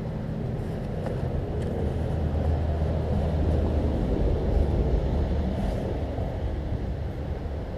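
A motor vehicle's engine rumble that grows louder and then fades, as it passes by.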